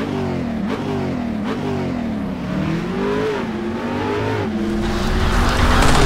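Car engine revving, its pitch rising and falling several times, with a rushing noise building near the end.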